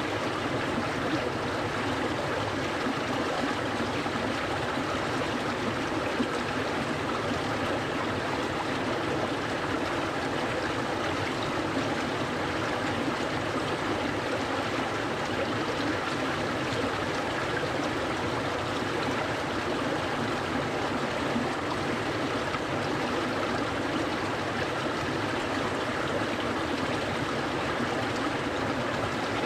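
A clear, cold-water stream flowing, a steady, unbroken rush and trickle of water.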